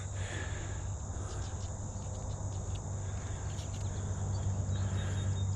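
Steady high-pitched chirring of an insect chorus, with a low steady hum beneath it.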